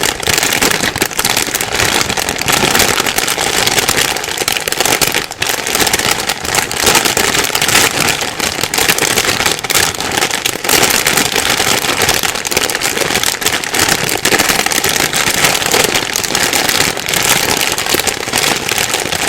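Plastic bag rustling and crinkling without a break, a dense stream of crackles, with a short lull about five seconds in.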